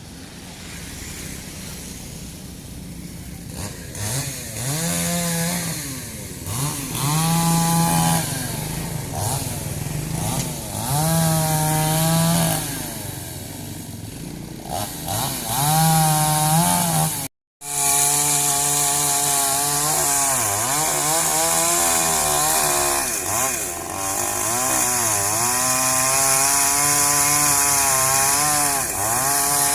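Chainsaw engine cutting up fallen tree wood, revving up and dropping back again and again. The sound breaks off for a moment about halfway through.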